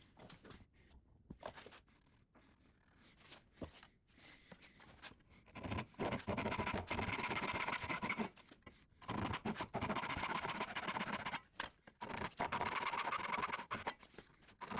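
Hand saw cutting dovetail pins in birch plywood. Light scratching at first, then three runs of quick, steady saw strokes, each about two seconds long.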